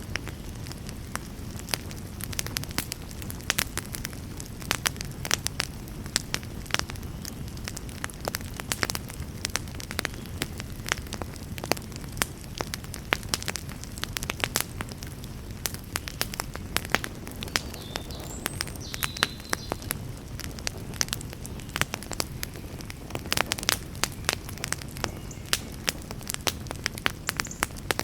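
Wood fire burning, with a steady low rumble and frequent sharp crackles and pops throughout.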